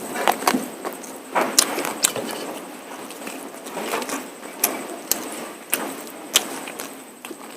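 Close-miked eating sounds: chewing mutton curry and polao rice, with irregular wet smacks and sharp clicks.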